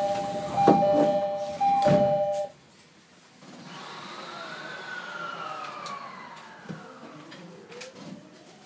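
Two-tone door chime of a Rinkai Line 70-000 series train ringing as the doors shut with a couple of thumps, cutting off suddenly about two and a half seconds in. After a second of quiet, a faint whine rises and falls in pitch over a low rumble as the train starts to pull away.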